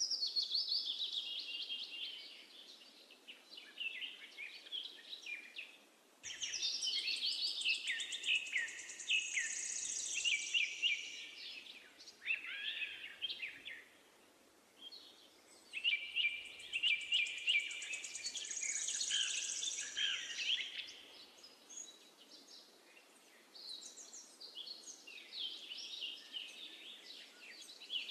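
Birds chirping and singing in overlapping bursts of quick chirps and trills, with a few brief lulls.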